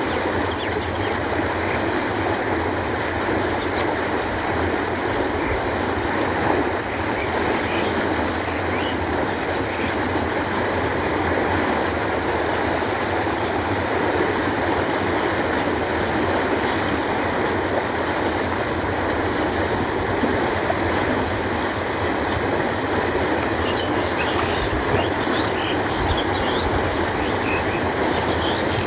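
Canal water flowing in a steady rush, with faint short bird chirps near the end.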